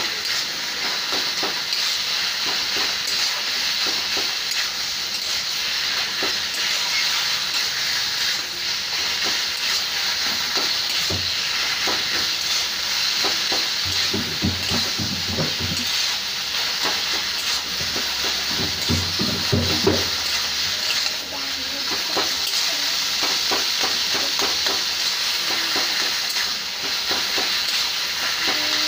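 Boiled taro leaves with onion, garlic and chilli sizzling steadily in hot oil in a kadai, with the clicks and scrapes of a spoon stirring and mixing them. Two short runs of low knocking come near the middle.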